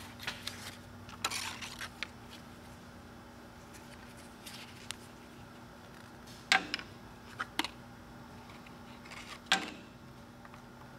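Scattered sharp clicks and knocks over a faint steady hum. A cluster of small ones comes in the first two seconds, and two louder knocks come about three seconds apart in the second half.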